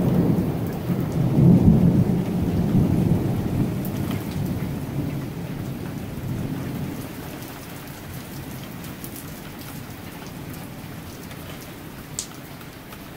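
Thunder rumbling low and heavy after a close lightning strike, fading away over several seconds, over steady rain. A single small tick sounds near the end.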